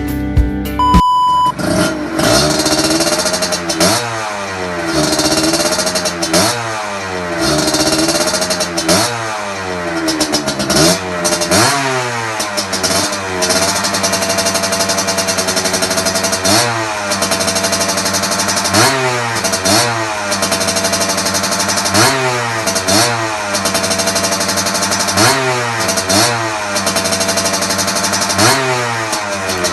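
Suzuki TS125's two-stroke single-cylinder engine revved through an aftermarket FMF exhaust: repeated quick throttle blips that rise and fall every second or two, with short stretches of steady idle between them.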